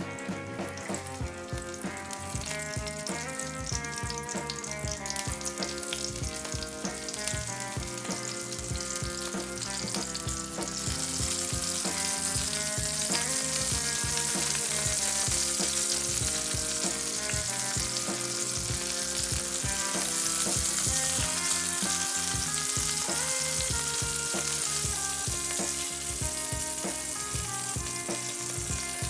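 Zucchini slices frying in hot olive oil in a pan, a steady sizzle that grows louder about ten seconds in. Background music plays throughout.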